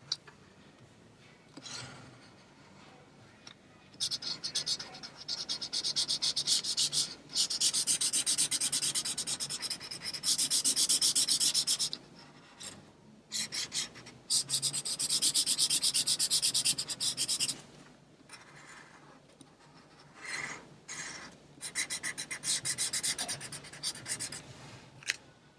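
A coloring tool scribbling back and forth on paper to fill in a drawing, in several bursts of rapid strokes with short pauses between.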